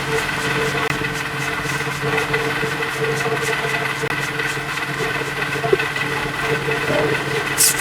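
An engine running steadily at idle, with a few short hissing bursts right at the end.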